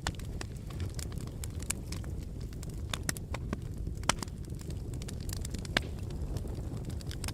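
Wood fire burning in a fireplace, a low steady rumble of flames with irregular sharp crackles and pops, two louder pops about four and six seconds in.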